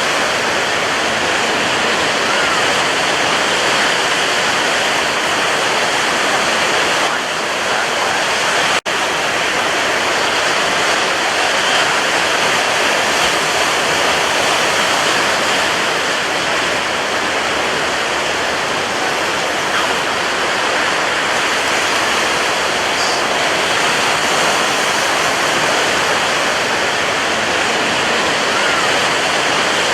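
Ocean waves breaking, heard as a dense, steady rush of surf with no distinct wave-by-wave swells. There is a split-second dropout about nine seconds in.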